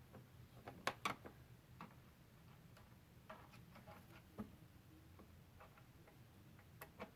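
Faint, scattered clicks and taps of a Phillips screwdriver working screws down into an engine's top cover, with two sharper clicks about a second in.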